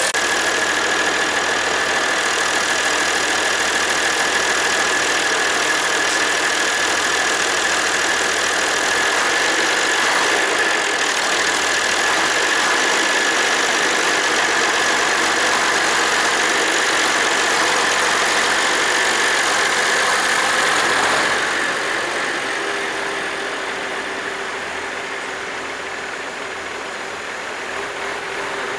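Massey Ferguson 1135 tractor's six-cylinder diesel engine running steadily with a constant high whine over it. About 21 seconds in the sound gets quieter, and shortly after a lower steady tone comes in.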